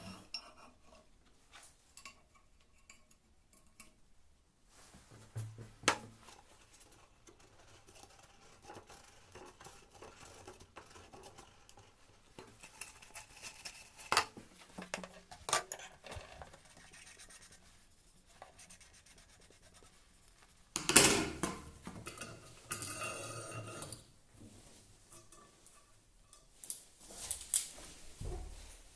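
Metal tools and parts handled by hand: scattered clinks and short scrapes, with one louder scrape lasting about a second and a half roughly two-thirds of the way through.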